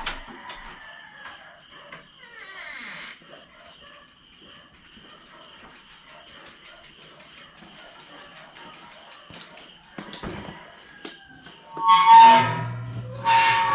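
Insects, crickets by the sound of it, trilling steadily in even, fast pulses. Near the end a louder sound with a held tone comes in twice.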